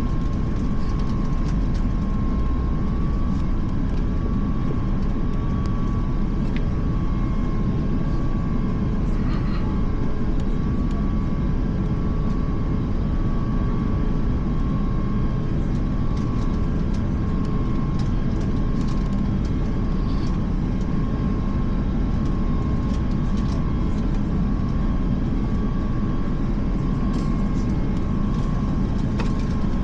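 Steady cabin noise inside an Airbus A350 airliner: a low rumble from the engines and air conditioning, with a constant high whine and a few faint clicks.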